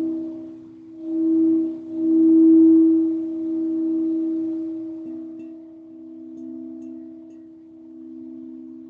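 Singing bowl ringing with a low, sustained, wavering tone that swells loudly about a second and two seconds in, then slowly fades.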